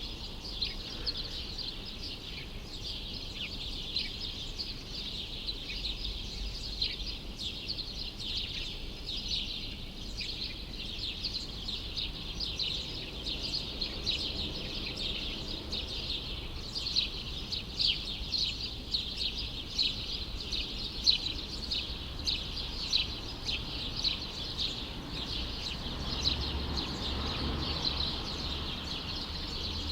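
Small birds chirping nonstop, many short high chirps overlapping one another, over a faint background hum. A low rumble swells up briefly near the end.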